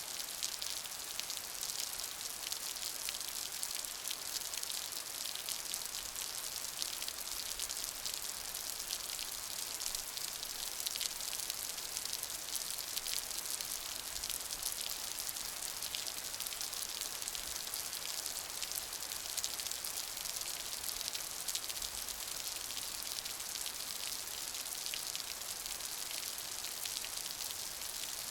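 Steady rainfall: dense, even pattering of raindrops, with most of the sound in the high hiss.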